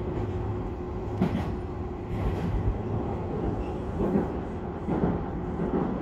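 Tobu express train running along the line, heard from inside a car: a steady low rumble of wheels on rail, with a few separate knocks as the wheels cross rail joints.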